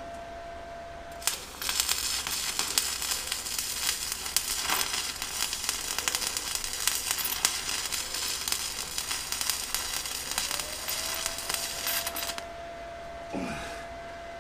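Stick (arc) welding a tack weld: the arc strikes with a sharp crack about a second in, then crackles steadily for about eleven seconds before cutting off near the end. A thin steady whine can be heard before the arc starts and after it stops.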